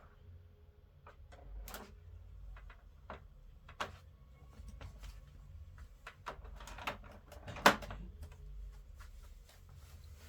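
Scattered clicks and knocks of plastic parts being handled on an upright vacuum cleaner, one sharper knock about three-quarters of the way through, over a faint low rumble.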